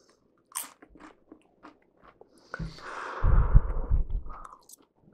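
Close-up eating sounds: a tortilla chip bitten and chewed, with small mouth clicks and a spoonful of chili taken. The loudest chewing comes in a spell starting between two and three seconds in.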